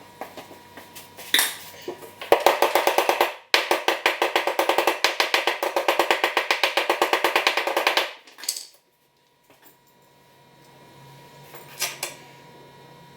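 Power impact tool hammering rapidly as it drives in the replacement screw for the mower-deck pulley mount: a short burst, a brief stop, then a longer run of about four and a half seconds. A few single metallic clicks of parts being handled come before and after.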